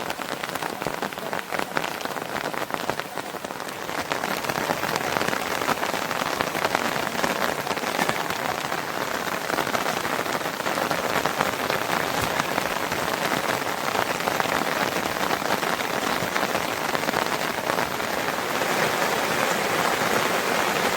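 Steady rain falling, a dense hiss of many small drops, getting somewhat louder about four seconds in.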